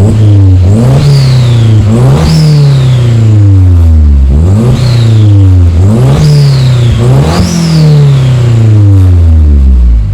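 Audi TT Mk2 engine revved about five times through a custom 3-inch stainless-steel decat exhaust with a dual-exit back box. Each rev climbs quickly and falls away more slowly, with a high falling whistle after each peak.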